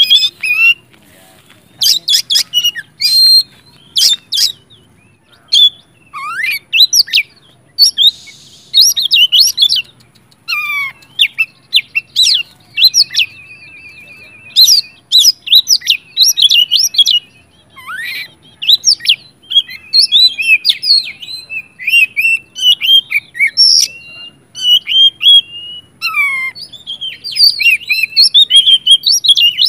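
Oriental magpie-robin (kacer) singing hard and continuously: a loud, varied song of whistled notes, sharp falling sweeps and buzzy rattling trills, delivered in quick bursts with short pauses.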